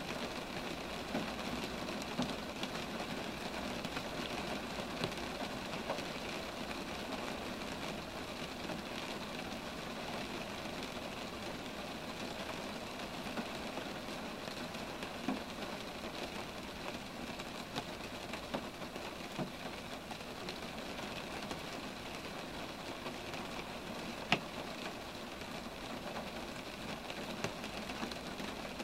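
Steady rain falling on roadside trees: an even hiss with scattered individual drop hits, one sharper hit late on.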